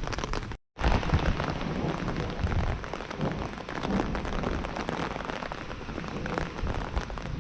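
Heavy rain falling, a dense patter of drops; the sound cuts out for a moment under a second in, then carries on.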